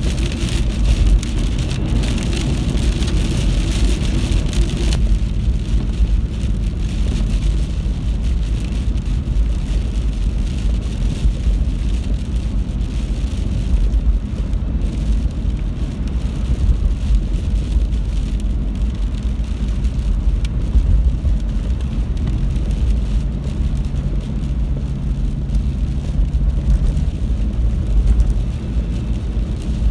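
Heavy rain hissing in a storm for about the first five seconds, then cutting off abruptly, over a steady deep rumble that continues throughout.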